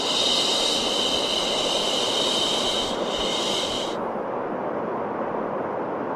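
Steady white noise played for baby sleep, with a brighter, higher hiss laid over it for about the first four seconds that then drops away, leaving the lower steady noise.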